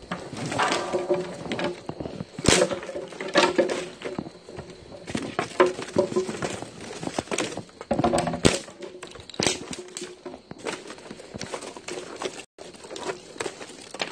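Irregular crackling, rustling and snapping of dry kindling and fire starter being handled and broken while a wood fire is being lit.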